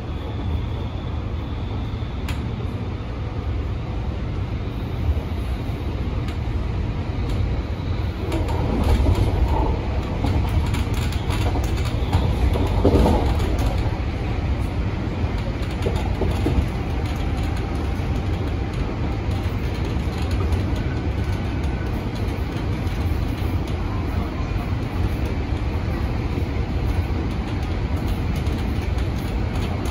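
MTR Tung Chung line A-train running between stations: a steady low rumble of wheels on rail and running gear, swelling louder for a few seconds about a third of the way in.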